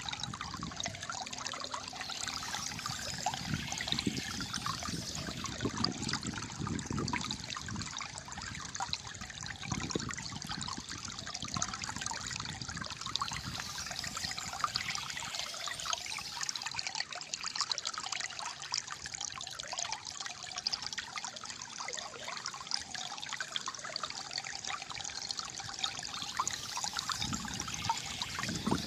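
Small stream of water gurgling and trickling steadily, with a deeper burble that is fuller in the first ten seconds and again near the end.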